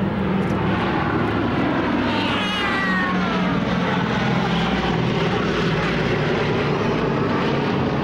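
Boeing B-17 Flying Fortress's four radial piston engines droning steadily in a display pass. About two seconds in, a short high whine that falls steeply in pitch, like a child's voice, cuts across the engine sound.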